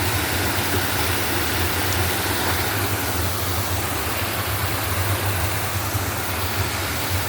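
Waterfall rushing steadily, a constant roar of falling water with a deep low rumble.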